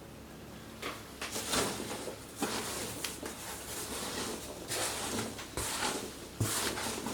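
Cardboard and plastic packaging being rummaged through and handled, in irregular rustling bursts with a sharper knock about six seconds in.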